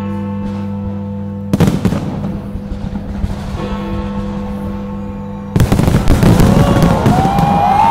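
Fireworks display over sustained music: one sharp bang about one and a half seconds in, then from about five and a half seconds a loud, dense barrage of bangs and crackling, with high rising-and-falling whistles near the end.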